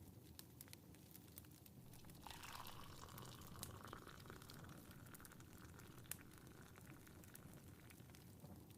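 Tea poured from a pot into a cup for a few seconds, starting about two seconds in, its pitch rising slightly as the cup fills. Faint fireplace crackle ticks throughout.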